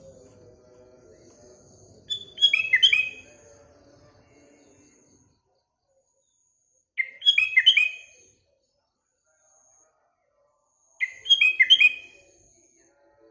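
Sooty-headed bulbul (kutilang) singing three short phrases of quick, downward-sliding notes, about four to five seconds apart. A faint thin high tone comes and goes between the phrases.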